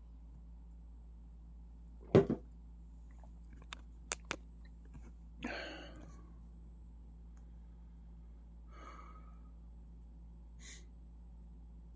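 A single loud thump about two seconds in, then a few quick sharp clicks and a short rustle, over a low steady hum.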